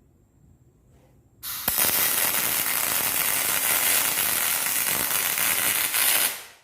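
Welding arc crackling steadily as a bead is run on a diesel fuel tank, starting about a second and a half in and stopping abruptly after about five seconds.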